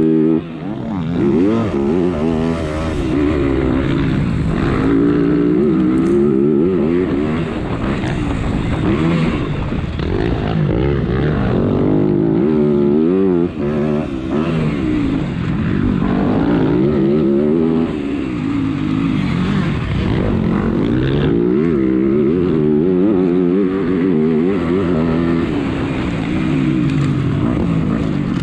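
Onboard sound of an MX2-class motocross bike's engine racing around a dirt track. The engine revs up hard and falls back again and again through the gears and corners, with the throttle snapped shut briefly about half a second in and again about halfway through.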